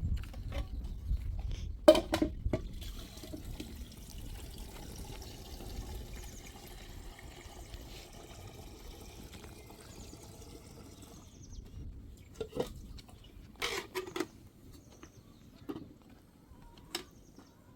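Water pouring steadily for several seconds, with a few sharp knocks just before it starts and scattered knocks after it stops.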